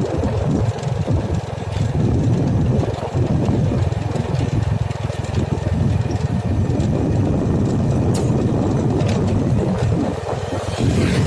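Heavy engine running steadily with a deep rumble, with a couple of sharp clicks about eight and nine seconds in.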